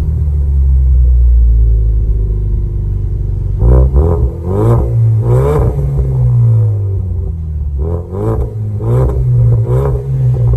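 2019 Ford Mustang EcoBoost's turbocharged 2.3-litre four-cylinder through a Kinney's Street Demon performance exhaust, idling low and steady, then revved in a series of quick throttle blips from about three and a half seconds in.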